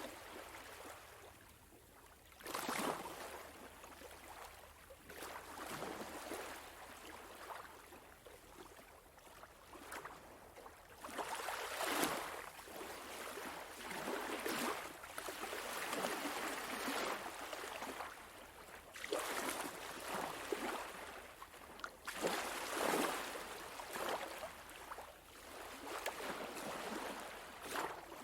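Small sea waves washing up onto a sandy beach, the hiss of water swelling and falling back in irregular surges every few seconds.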